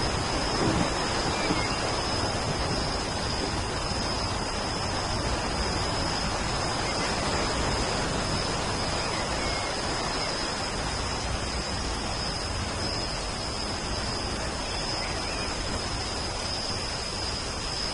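Steady rain falling, an even hiss with a thin steady high tone running through it.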